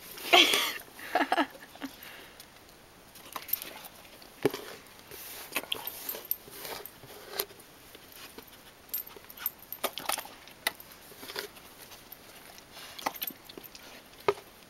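Puppies eating turkey skin: scattered short wet chewing and smacking clicks, with a cluster of louder bursts in the first second and a half.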